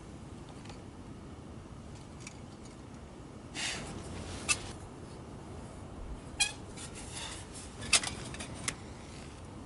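Small hard objects being handled: a few faint clicks, a short rustle about three and a half seconds in, then four sharp clicks or clinks, the loudest about eight seconds in.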